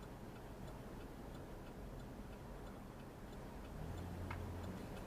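A car's hazard-light flasher ticking steadily inside the cabin, a few clicks a second.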